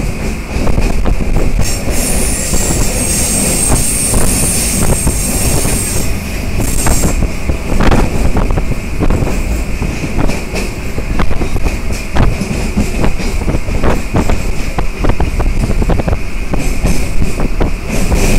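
Moving train heard from inside the carriage: steady running noise with wheels clacking over the rail joints. A high-pitched wheel squeal rises from about two seconds in and fades near the six-second mark.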